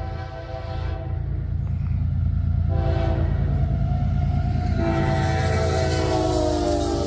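Diesel freight locomotive's multi-chime air horn blowing at close range over the loud rumble of its engine: a blast that ends about a second in, a short blast, then a long blast whose pitch drops as the locomotive passes. This is the closing short-then-long of a grade-crossing horn signal.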